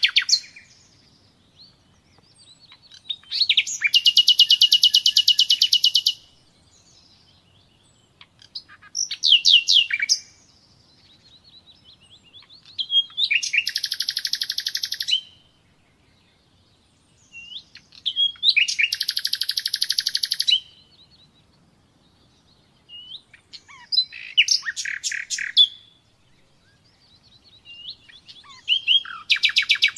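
Nightingale singing: about seven song phrases with pauses of a few seconds between them, several of them fast rattling trills of evenly repeated notes, others short whistled glides.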